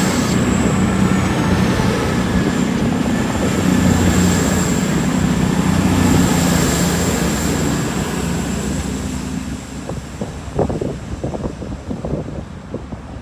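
CrossCountry Class 220 Voyager diesel multiple unit 220029 running out of the station under its underfloor diesel engines, a steady engine hum with a thin high whine that fades away after about eight seconds. Irregular buffeting thumps follow near the end.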